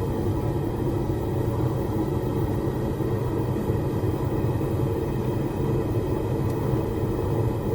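Propane forge burners running with a steady rumble.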